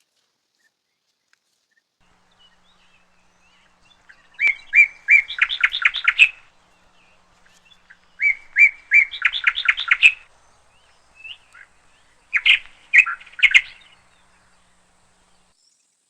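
A songbird singing three short phrases a few seconds apart, each opening with a few separate notes and running into a quick trill.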